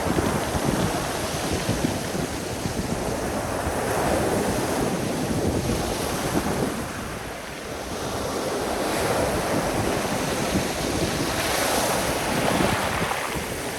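Black Sea surf breaking and washing on the shore in slow surges, with wind buffeting the microphone.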